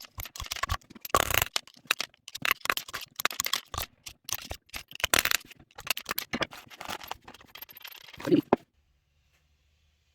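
Hand handling of an XM18 40mm training round: irregular clicks, scrapes and rattles of metal parts being taken apart and checked for fired shells. The sound stops abruptly near the end.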